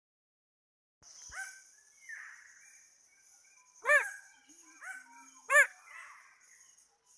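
A dog barking twice, two short, loud barks about a second and a half apart, with a few fainter calls between them. Steady, pulsing insect calls run underneath. The sound only begins about a second in.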